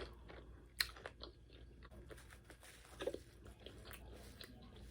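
A person chewing a mouthful of crispy fried chicken close to the microphone: soft chewing with a few sharp crunches, the loudest a little under a second in and again about three seconds in.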